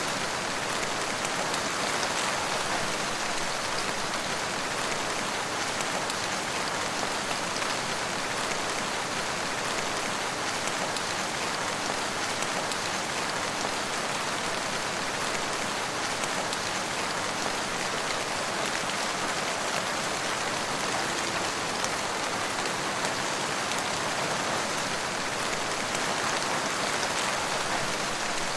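Steady rain falling on surfaces, an even hiss with a patter of individual drops and no change in intensity.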